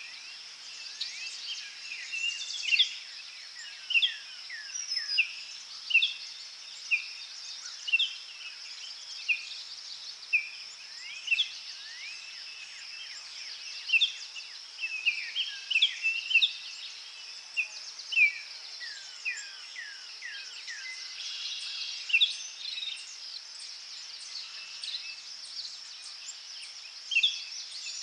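Forest birds calling over and over, short whistled notes that mostly slide down in pitch, about one a second, over a steady high insect buzz.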